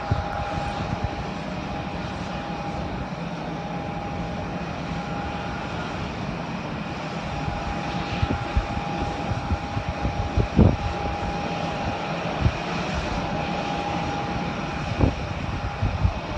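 Airliner jet engines running with a steady whine over a broad rumble, with a few short low thumps in the second half.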